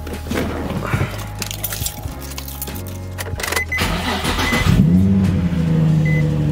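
Keys jingle at the ignition of a Nissan 350Z and a chime beeps. About four and a half seconds in, its 3.5-litre V6 cranks, catches with a rising rev, and settles into a steady idle.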